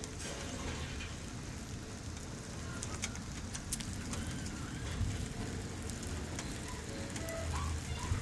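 Steady rain falling, with scattered drops ticking sharply, and a couple of low rumbles around the middle and near the end.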